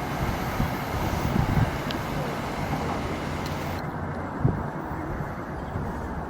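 Passing train's steady rumble and rail noise; the hiss in the highest range drops away about two-thirds of the way through.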